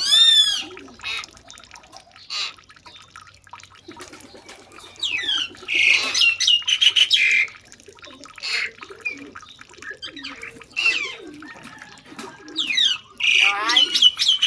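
Birds calling in bursts of rapid chirps and sweeping whistles: one at the start, one about halfway through and one near the end, with scattered quieter chirps between.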